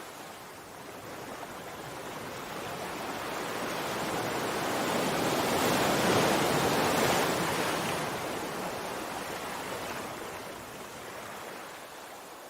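Sea surf: a single wave surges in, growing louder to a peak about halfway through, then washes back and fades.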